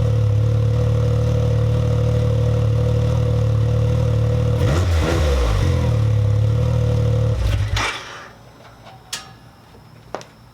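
Can-Am Maverick X3 XMR's turbocharged three-cylinder engine idling through an Evolution Powersports full exhaust with cat delete, given one short rev about five seconds in, then switched off about two seconds later so that the engine note stops abruptly.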